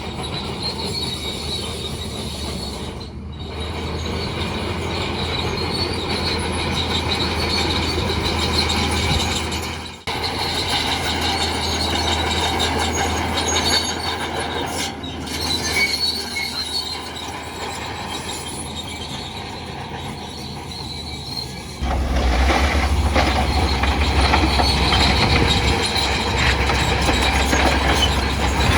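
Bulldozer at work: its diesel engine runs steadily while the steel tracks squeal and clank. The sound changes abruptly twice, about a third of the way in and near three quarters, then comes back louder.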